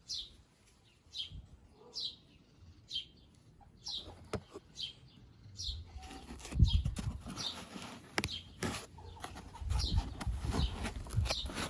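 A small bird chirping over and over, short high chirps about one every two-thirds of a second. From about halfway through, clicks and low thumps join in.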